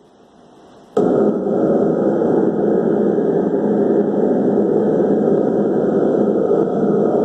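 Recorded wind sound effect, starting abruptly with a click about a second in and then blowing steadily and loudly.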